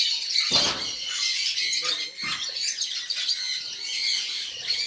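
A flock of lovebirds calling together in a dense, continuous chatter of shrill chirps and squawks, the birds newly released into an aviary. A brief dull thump about half a second in, with a weaker one a little after two seconds.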